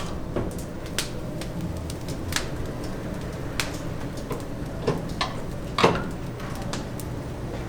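Scattered sharp clicks and knocks, about seven of them at irregular intervals, over a steady low hum in a restaurant kitchen. The loudest knock comes about six seconds in.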